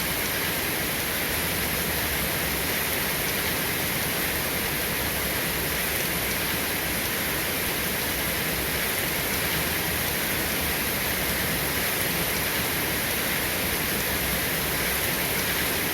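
Steady rain, an even hiss with no breaks and no thunder.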